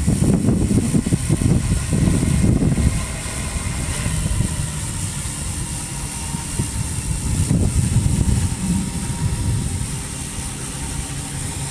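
Wind buffeting the microphone in gusts, strongest in the first few seconds and again past the middle. Underneath runs the steady hum of a quadcopter's four brushless motors spinning 17-inch wooden props.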